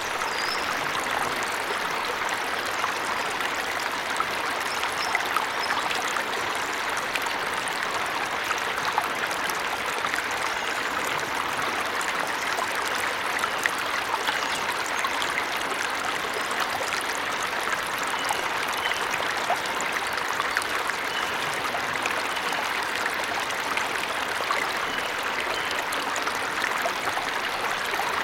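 Waterfall water rushing and splashing in a steady, continuous wash.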